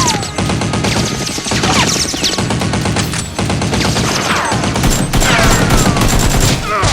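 Rapid automatic gunfire sound effects, a continuous volley of shots with several whizzing ricochets that fall in pitch.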